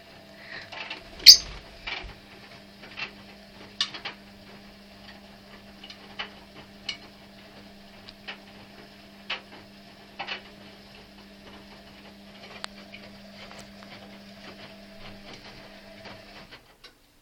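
Washing machine running with a steady motor hum and irregular clicks and knocks from the turning drum, the sharpest about a second in. The hum stops suddenly shortly before the end.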